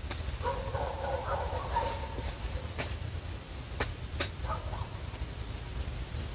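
Dogs barking in the distance: a run of barks, then three sharp clicks, then a few more barks, over a steady low rumble.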